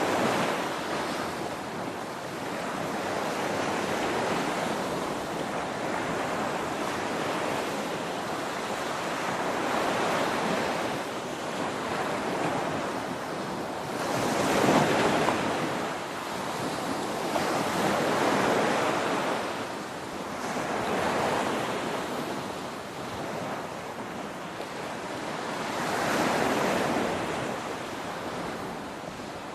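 Ocean waves breaking and washing on a beach, a steady rush of surf that swells and ebbs every few seconds, loudest about halfway through.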